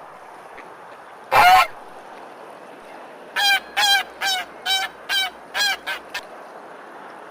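Goose honking: one honk about a second and a half in, then a quick run of about eight short honks.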